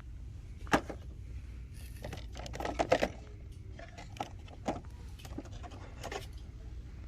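A handful of short clicks and knocks over a low steady hum: a sharp click near the start, a quick cluster of knocks and rattles about three seconds in, then a few lighter ones.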